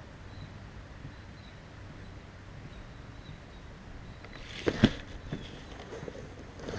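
A couple of sharp knocks close together about two-thirds of the way in, over faint steady background noise.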